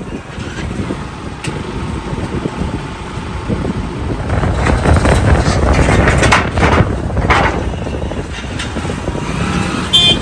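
A motor running with wind buffeting the microphone, growing louder through the middle and easing off after about eight seconds. A short sharp click comes near the end.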